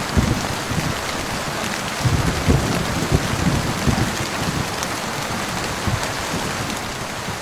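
Steady heavy rain, with a low thunder rumble rolling underneath, strongest in the first half.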